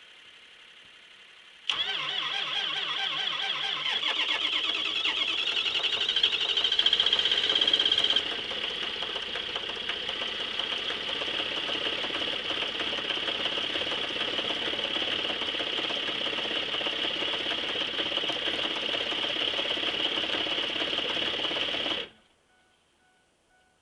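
Ford 6.0L Power Stroke V8 turbodiesel cold-starting at about -5°F without a block heater: it comes in suddenly about two seconds in and runs unevenly and louder for several seconds, then settles into steady running at a cold low idle of about 500 rpm that won't rev up. The sound cuts off abruptly near the end.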